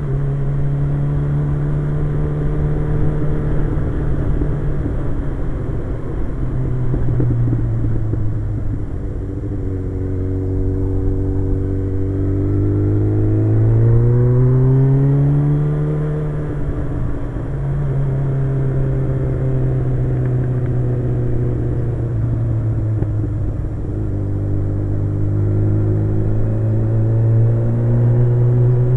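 Suzuki GSX-R 1100's inline-four engine running at steady road speed. Its note steps lower a few seconds in, rises for several seconds around the middle as it speeds up, then drops back and holds steady.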